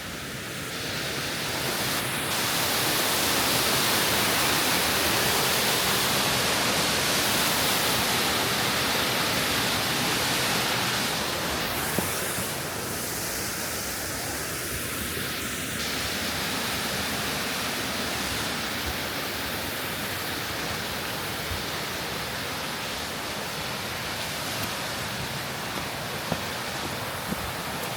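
Steady rush of a waterfall's falling water in a mountain gorge. It grows louder over the first few seconds and eases a little around eleven seconds in.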